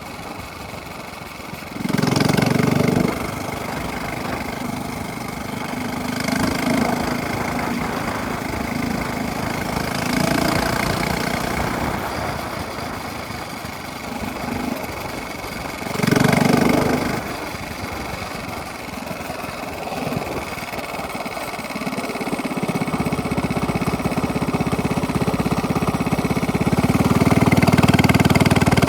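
Minibike engine with a straight-pipe exhaust, running with two short throttle blips, about two seconds in and again about sixteen seconds in, then building louder and held there near the end.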